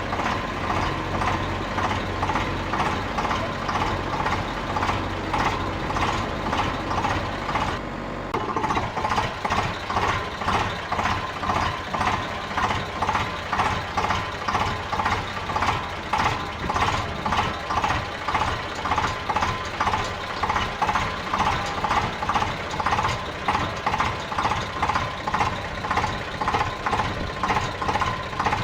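An engine running with a steady rhythmic chug, about one and a half pulses a second. A low hum under it drops out about 8 seconds in.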